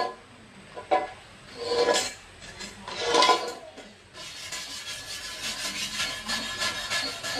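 Hand scraping or rasping on a workpiece: three separate strokes with a faint ringing squeal in the first few seconds, then a run of quick, even rasping strokes from about four seconds in.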